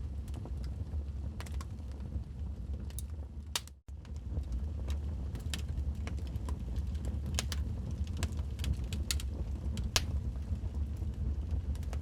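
Wood fire crackling in a fireplace: irregular sharp pops and snaps from burning logs over a steady low rumble. The sound cuts out for a split second about four seconds in.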